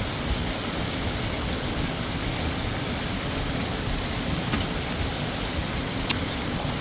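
Steady rushing of a flowing river, with a couple of faint clicks near the end.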